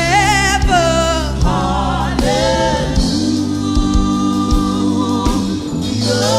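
Gospel praise music: voices singing with vibrato over sustained keyboard chords and a steady beat.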